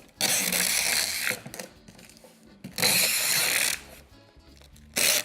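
Packing tape pulled off a handheld tape dispenser to seal a cardboard box: two pulls of about a second each, then a short one near the end.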